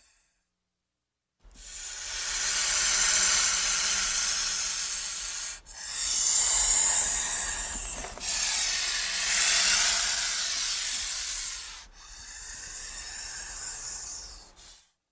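Sound-effect hissing for a giant prehistoric snake (Titanoboa): four long, rasping hisses, each a few seconds long with brief breaks between them, the last one quieter.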